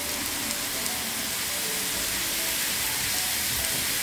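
Steady sizzling of steaks, sausages and zucchini slices frying on a hot aluminium grill plate over a portable gas stove.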